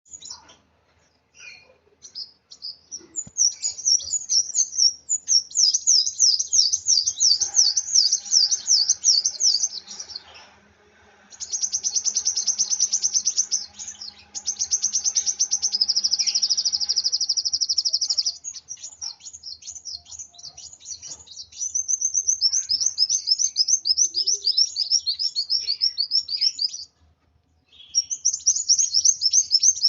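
Kolibri wulung sunbird singing in an agitated, fired-up state: long runs of very fast, high, trilled phrases, broken by a few short pauses.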